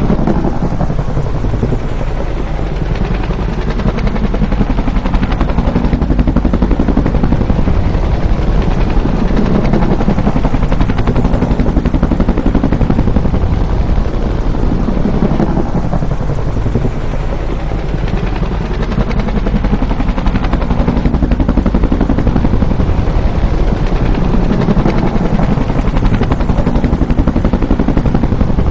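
Bell UH-1 "Huey" helicopter with its two-bladed rotor, its loud, fast rotor chop and turbine noise running without break. The sound swells and eases back about every fifteen seconds as the helicopter flies by.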